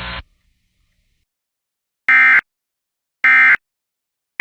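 Three short bursts of Emergency Alert System SAME data tones, about a second apart: the end-of-message code that closes an alert. A hiss of radio static cuts off just before them.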